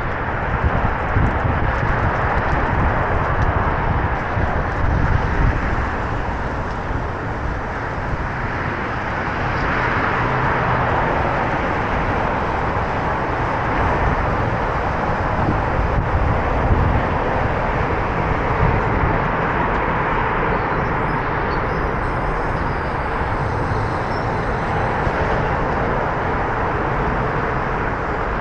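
Wind buffeting the microphone and a steady rushing noise while riding a bicycle, with no clear separate events.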